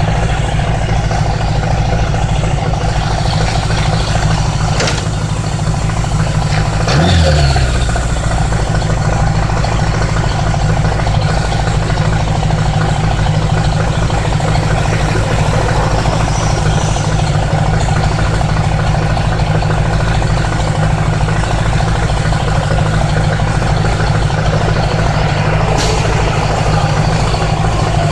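1980s Honda Gold Wing motorcycle engine running steadily while riding, heard from on the bike. About seven seconds in there is a brief louder sweep that falls in pitch.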